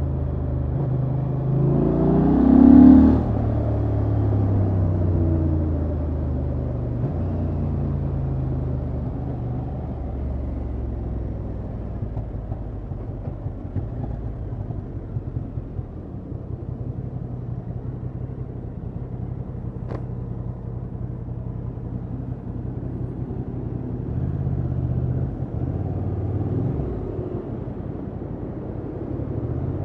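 Honda XL750 Transalp's parallel-twin engine running through its stock exhaust. There is a louder surge and fall about three seconds in, then the revs ease off and hold steady and low for a long stretch. The engine picks up again in rising pulls near the end. A single sharp click comes about two-thirds of the way through.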